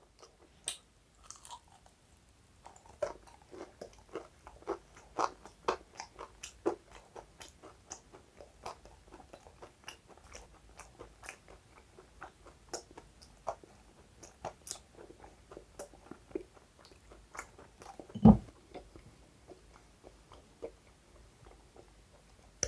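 Close-up chewing and crunching of a crisp deep-fried chicken pakora fritter with capsicum and carrot in the batter: many small irregular crunches, the sign of a crispy fry. About eighteen seconds in there is one short, low, hummed 'mm'.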